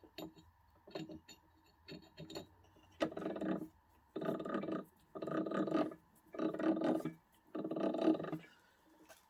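Small model-locomotive traction motor and gearbox whirring in five short bursts, each under a second, about a second apart, as the sticking motor is worked to free it up.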